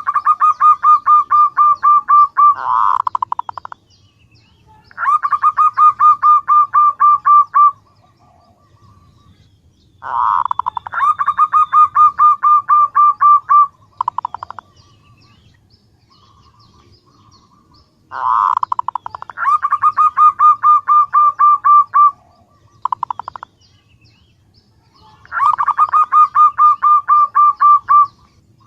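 Female zebra dove (perkutut) calling to males: five runs of rapid, evenly repeated notes, each lasting two to three seconds, with short pauses between them.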